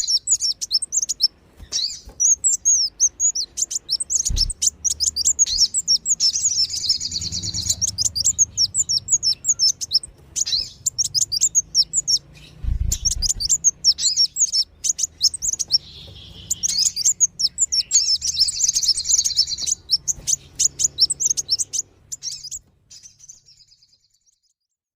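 Lure recording of Kolibri Wulung sunbird and Sogon calls: rapid, high-pitched chirps in dense runs broken by short pauses, stopping a few seconds before the end.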